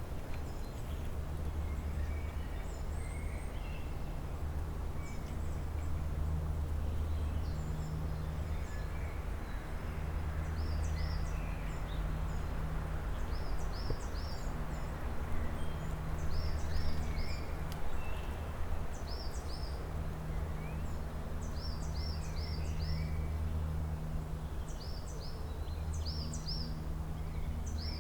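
Songbirds chirping: short, high notes, often in quick runs of three or four that repeat every couple of seconds. Under them runs a steady low hum with a noisy background haze.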